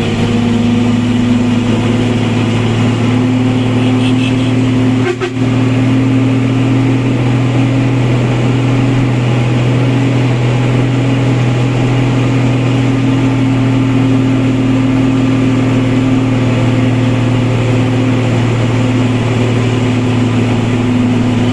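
Truck engine running steadily at constant pitch under a heavy 13-ton load while climbing a steep grade, with a momentary drop about five seconds in.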